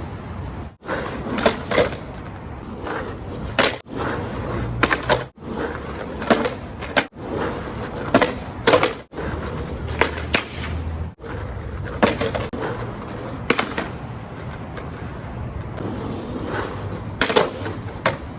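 Skateboard wheels rolling on pavement, broken by sharp clacks and short scrapes of the board during tricks such as a frontside powerslide and noseslide. The sound drops out briefly several times, as if cut between takes.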